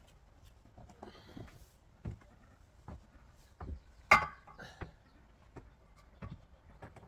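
Scattered light knocks and taps of bricks and tools being handled, with one louder, sharp knock about four seconds in.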